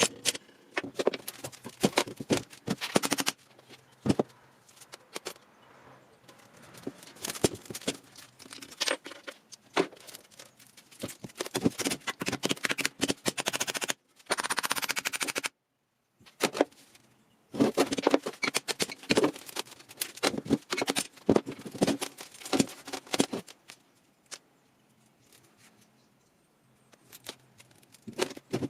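Irregular sharp knocks and clatter, like hard objects striking, in clusters with short quiet gaps. The sound cuts out abruptly a couple of times midway.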